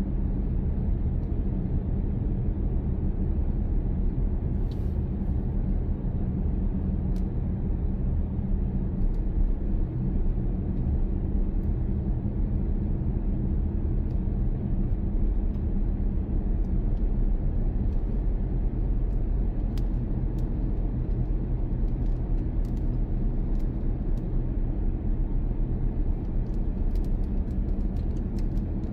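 Steady low rumble of a car's engine and tyres while driving, as heard from inside the car, with a few faint ticks.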